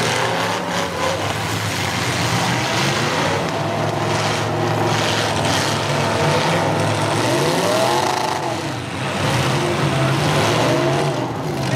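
Several demolition derby cars' engines running and revving at once, one engine climbing in pitch and falling back about two-thirds of the way through.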